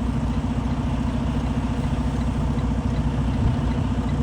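Truck's diesel engine running steadily at low speed with a fast, even low pulse, as the truck creeps forward. Faint, evenly spaced ticks sound above it.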